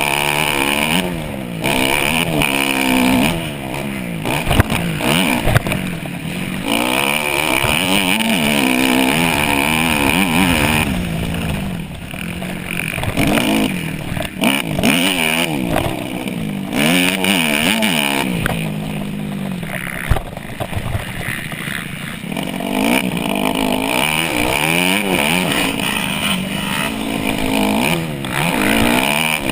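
Dirt bike engine revving hard, its pitch climbing and falling back over and over as the throttle opens and closes through a race.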